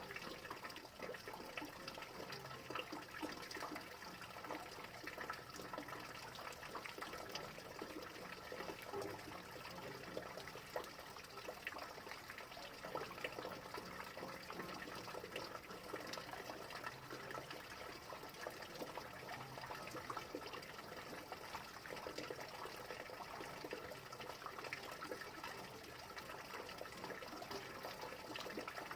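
Steady rain falling, a continuous hiss dense with small drop ticks.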